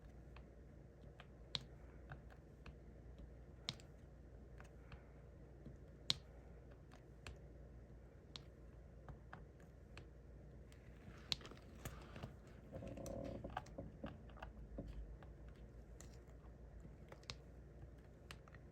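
Faint, irregular small clicks and taps of a diamond painting pen picking up resin drills and pressing them onto the sticky canvas, with a busier stretch of handling noise about two-thirds of the way through.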